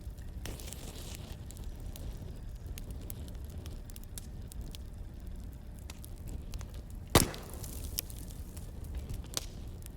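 Wood fire crackling over a low rumble, with irregular small snaps and one loud sharp pop about seven seconds in.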